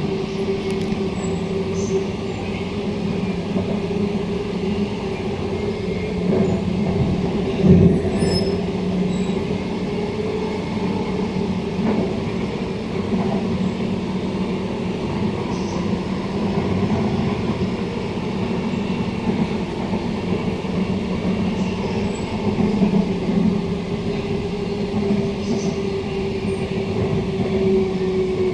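Inside a Queensland Rail SMU 260 electric multiple unit running at speed: a steady running rumble with a constant hum. A single loud knock comes about 8 seconds in.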